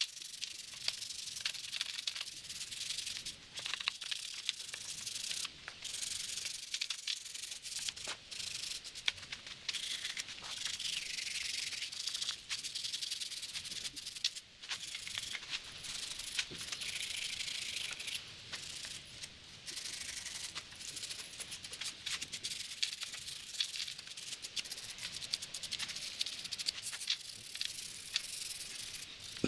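Hand wire brush scrubbing a magnesium transmission case in quick, uneven strokes, a continuous scratchy hiss. It is brushing off the white haze that the aluminum brightener leaves on the magnesium.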